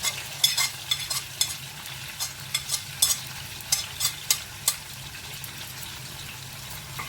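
Food sizzling as it fries in hot oil in a cooking pot, with a spoon clicking and scraping against the pot as it is stirred. The clicks stop after about four or five seconds, leaving a steady sizzle.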